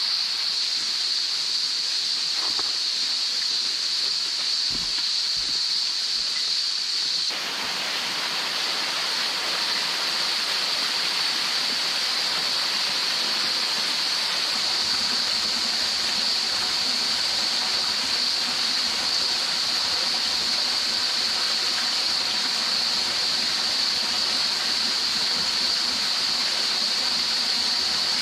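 A steady, high-pitched chorus of cicadas over the even rush of running creek water; about seven seconds in, the water becomes louder and fuller.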